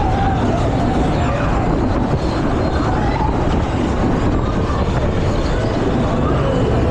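Fairground thrill ride in motion, heard as a loud, steady rush of wind on the microphone with faint wavering voices in the background.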